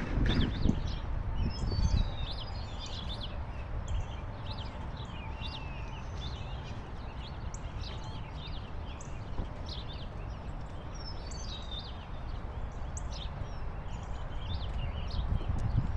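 Several small birds chirping and singing in quick, short notes throughout, over a steady low rumble.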